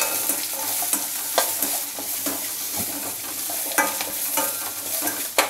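Small onions and coconut pieces sizzling in oil in a stainless steel kadai, stirred with a metal slotted spoon that scrapes and clinks against the pan a few times.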